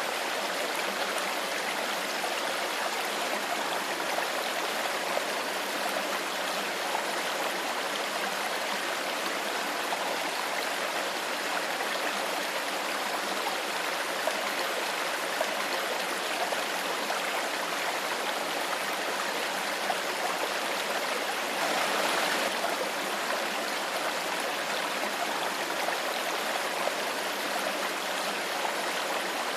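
Stream water flowing steadily in a continuous rushing babble, with a brief slightly louder surge about three quarters of the way through.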